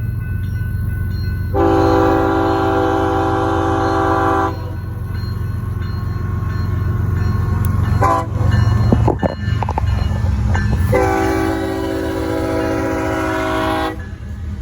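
Freight train's diesel locomotive horn sounding two long blasts, about a second and a half in and again near the end, with a short toot around the middle, over the steady low rumble of the locomotives.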